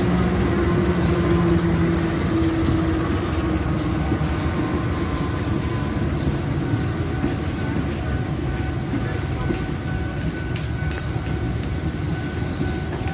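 KRL electric commuter train moving on the track: a steady rumble of wheels and running gear, with a humming tone over it for the first two seconds or so that then fades.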